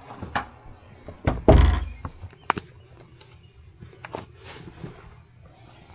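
Footsteps and handling noise of a person walking out, with a few sharp clicks and one heavy thump about a second and a half in.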